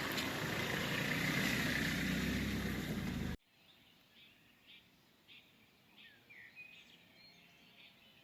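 Steady road and engine noise of a moving car, cutting off abruptly about three and a half seconds in. Then faint birds chirping in short repeated calls.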